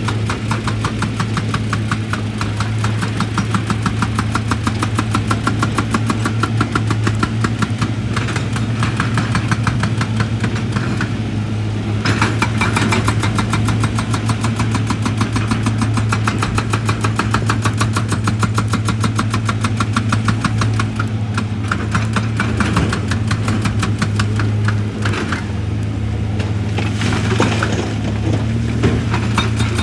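Heavy diesel machine engine running steadily under a rapid, even hammering of a hydraulic percussion tool on rock, with brief pauses in the blows.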